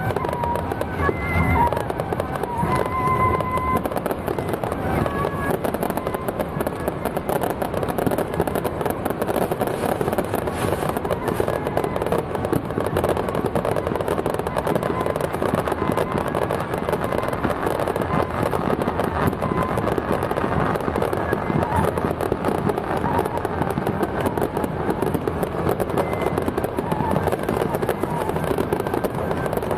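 Dense, unbroken crackling of fireworks and firecrackers, with music faintly held under it in the first few seconds.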